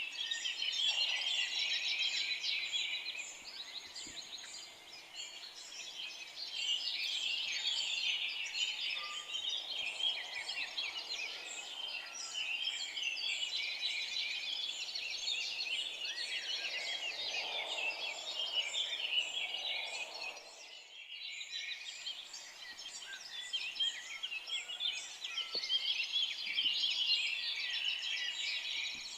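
A dense chorus of many songbirds, with overlapping chirps and trills mostly high-pitched, dipping briefly about two-thirds of the way through before picking up again.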